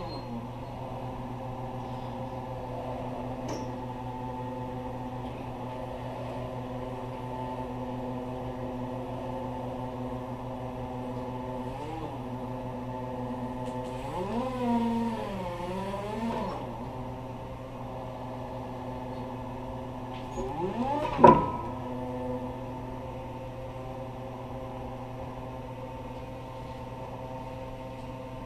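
Lift truck motor running with a steady hum and whine. Its pitch dips and rises a little past the middle, and about two-thirds of the way through a quick rising sweep ends in a sharp knock.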